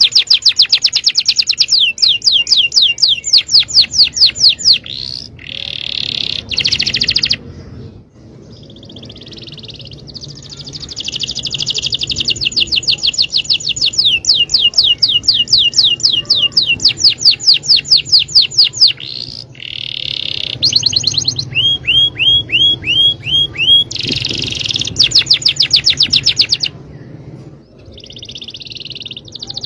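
Domestic canary singing: long, loud runs of fast trills, each made of one sweeping note repeated many times a second, switching to a new trill every few seconds, including a short run of falling whistled notes about three quarters of the way in.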